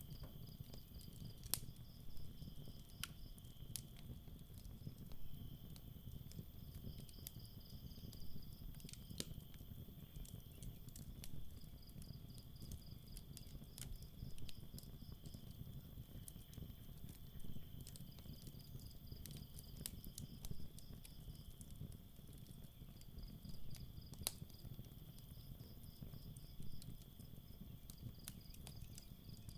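Campfire crackling, with scattered sharp pops over a low steady rumble, while crickets chirp in repeated pulsed trains over a steady insect trill.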